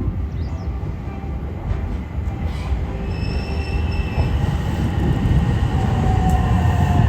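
Local electric train pulling into a station platform: a low rumble of wheels on rail that grows louder as it nears, with a brief high wheel or brake squeal about three seconds in.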